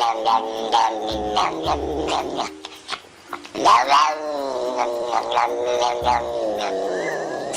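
A pet animal yowling in long, wavering drawn-out calls, with a short break about three seconds in before a louder call that rises and falls in pitch.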